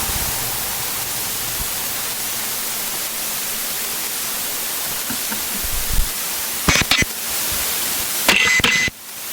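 Steady, static-like hiss of cockpit noise in a Citabria 7ECA taildragger, with a few brief knocks and rustles about seven and eight and a half seconds in. The hiss drops away sharply just before the end.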